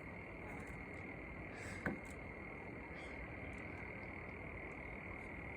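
A faint, steady, high-pitched chorus of calling animals, with a single sharp click about two seconds in.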